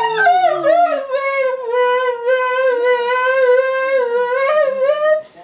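Siberian husky howling: one long, wavering howl that slides down in pitch over the first second, then holds with a slight warble and rises a little before breaking off just before the end.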